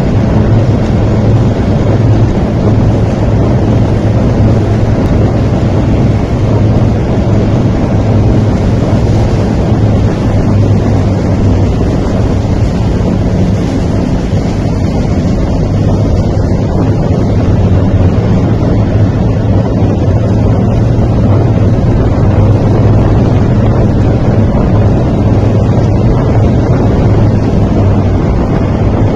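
A heavy vehicle engine running steadily with a constant low hum, heavily buffeted by wind on the microphone.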